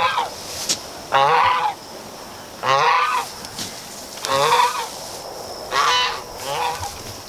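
Farm fowl calling loudly and repeatedly: about five short, pitched calls, each about half a second long, spaced a second or so apart.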